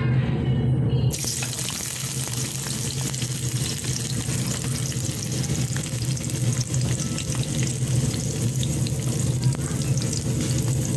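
Chopped onion and garlic hit hot oil in a pan about a second in and then sizzle steadily as they fry.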